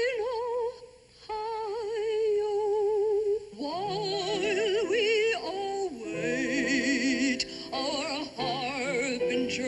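Operatic song with strong vibrato: a solo voice holds a long high note, then about three and a half seconds in the orchestra joins and the melody moves more busily.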